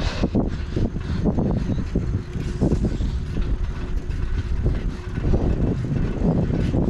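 Wind rushing over the microphone of a camera on a moving bicycle: a steady low rumble that rises and falls, mixed with road noise.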